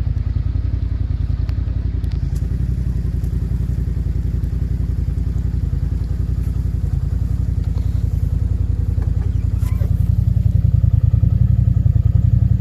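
Vehicle engine running with a steady low drone, growing louder about ten seconds in.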